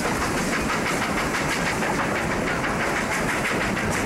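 A passenger train hauled by Sierra Railway No. 28, a Baldwin steam locomotive, running steadily along the track, heard from a coach window as an even rumble and rattle of wheels on rails.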